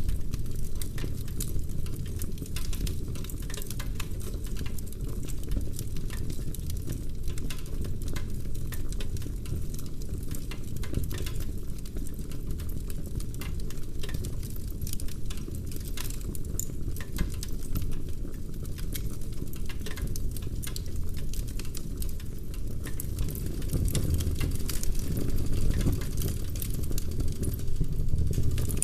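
Wood fire burning in a fireplace, with dense continuous crackling and small pops of burning logs over a low steady rumble of the flames.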